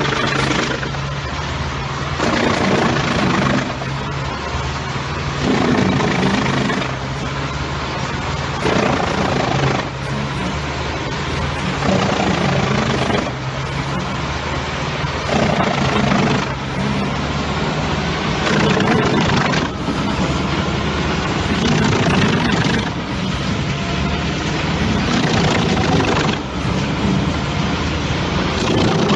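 Engine-driven drum wood chipper running with a steady low drone, the noise surging every two to three seconds as logs are fed into the drum and chipped.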